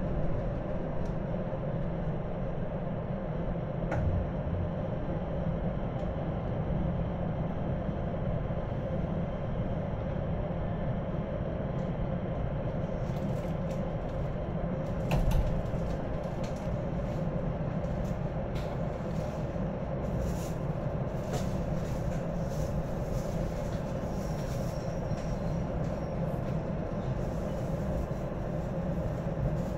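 Electric passenger train running, heard from inside the car: a steady low rumble of wheels on rail, with a couple of sharper clicks, one about four seconds in and a louder one about fifteen seconds in.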